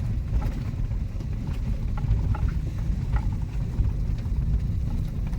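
Manual car driving slowly, heard from inside the cabin: a steady low rumble of engine and road, with scattered light clicks and rattles.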